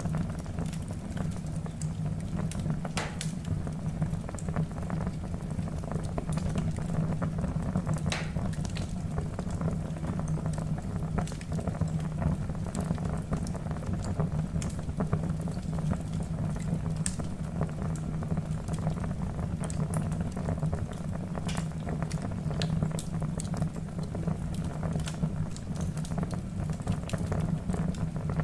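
Wood fire burning in a fireplace: a steady low rumble of flame under frequent crackling of the logs, with a few sharper pops standing out.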